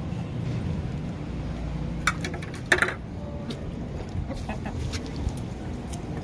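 Hens clucking while feeding, with two short sharp calls about two and three seconds in, over a steady low rumble.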